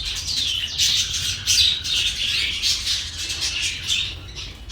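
Many small caged birds, budgerigars among them, chirping and squawking over one another in a continuous chatter.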